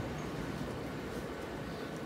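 Steady low rumble of a departing Taiwan Railway EMU900 'Smile' local train, fading into the distance.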